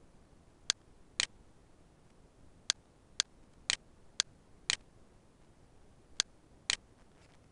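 Computer mouse button clicking: about nine short, sharp clicks, several falling in pairs about half a second apart.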